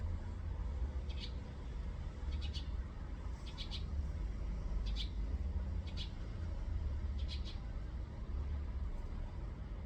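A small bird calling with short high chirps, some doubled, repeated about every second, over a steady low rumble.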